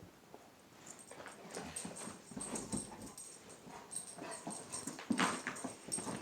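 A puppy making short, irregular vocal sounds while playing. They start about a second in and grow louder, with the loudest about five seconds in.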